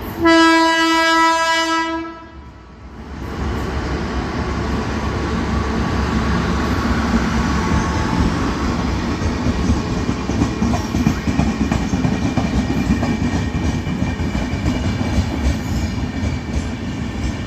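A train horn sounds one long, loud, steady blast for about two seconds and then cuts off. From about three seconds in, the Andaman Express passenger train runs past at full speed with a steady, loud, deep rumble of wheels on rails.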